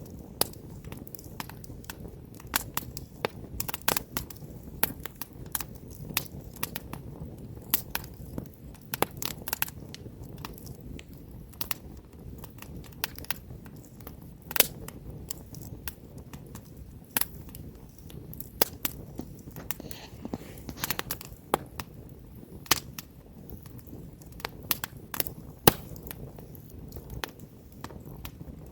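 Wood campfire burning: irregular sharp crackles and pops from the burning logs over a low steady rumble of the flames.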